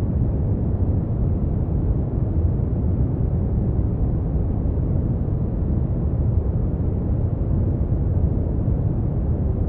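Steady brown noise: an even, deep rumbling hiss with its weight in the low bass and little treble, unchanging throughout.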